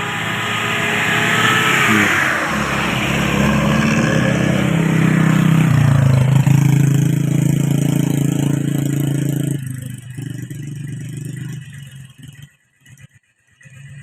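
A motor vehicle's engine revving up and then running loudly at a steady pitch. It drops off sharply about ten seconds in and fades out near the end.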